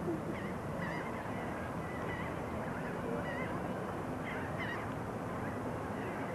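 Birds calling on a beach: many short, scattered calls over a steady background wash.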